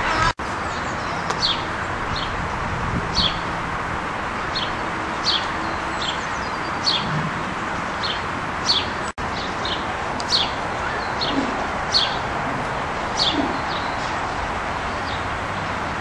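A small bird chirping: short, high, falling notes repeated about once a second over steady outdoor background noise. The sound cuts out briefly twice.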